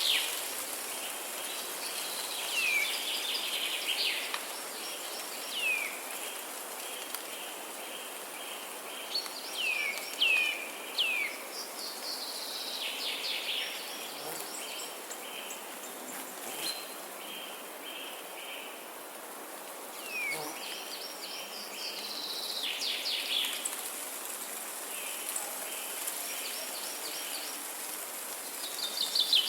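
Songbirds singing in a dawn chorus: repeated high, rapid trills and short downward-sweeping chirps come in phrases every few seconds over a steady background hiss.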